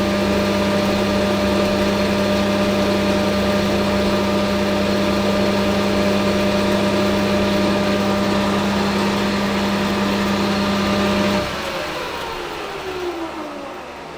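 Hafco AL960B metal lathe running steadily with a motor hum and gear whine. About eleven seconds in it is switched off, and its whine falls in pitch as the spindle spins down.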